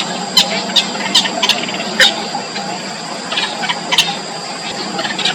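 Yellow bittern nestlings in the nest giving short, sharp, high-pitched calls in irregular quick succession, the begging calls of chicks being fed, over a steady high-pitched background drone.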